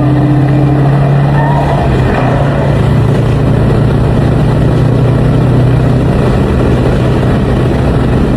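Car engine running steadily under heavy road and exhaust noise, with the engine note wavering briefly about two seconds in.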